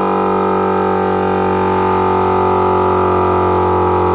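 Battery-powered portable air compressor running with a loud, steady hum at an even pitch. It keeps running rather than cutting out because the drain bung in the bottom of the tank has not been tightened, so the tank does not fill.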